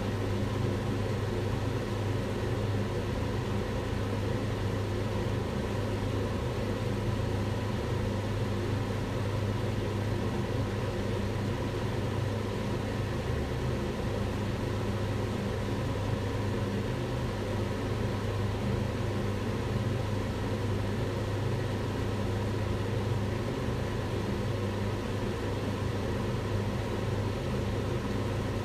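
Kitchen range hood's extractor fan running steadily: a low hum with a few steady tones over an even rush of air.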